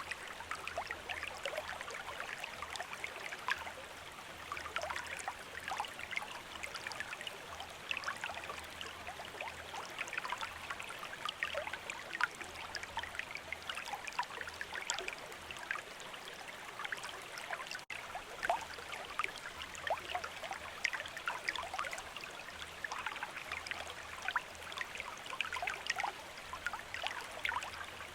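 A shallow stream running steadily over stones, with a continuous babbling and trickling full of small splashes and bubbles.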